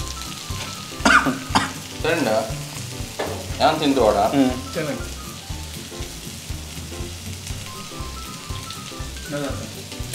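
Chicken frying in hot oil in a pan on a gas stove, sizzling steadily, with a spatula stirring and knocking against the pan. A few short pitched sounds come through in the first half.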